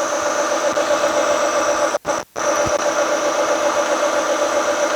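Tree vertical milling machine running in low gear, its spindle turning a drill bit into a hardened steel crankshaft: a steady mechanical hum with a constant high tone. The sound drops out twice briefly about two seconds in.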